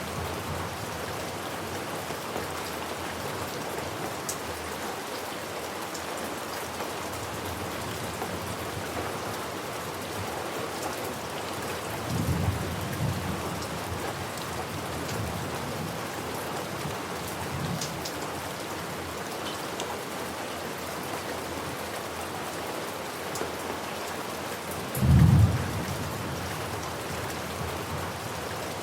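Steady rain falling, with low thunder rumbling twice: a softer rumble about halfway through and a louder, short one near the end.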